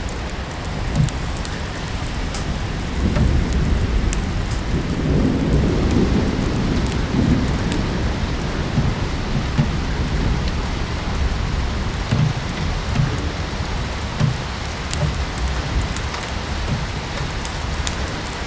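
Steady rain, with a low rumble of thunder that swells about three seconds in and fades out by about eight seconds. Scattered small crackles of a wood fire sit on top of the rain.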